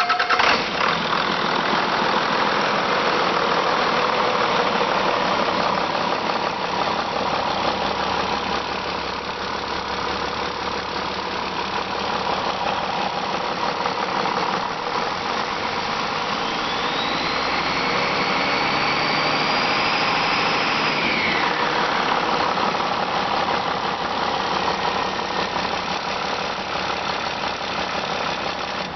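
Used 2006 International DT466E EGR inline-six diesel engine running steadily. A high whine rises about halfway through, holds for a few seconds, then falls away.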